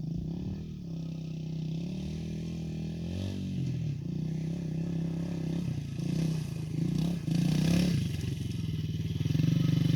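Yamaha TT-R110 pit bike's small single-cylinder four-stroke engine running, revving briefly a few times, and getting louder near the end.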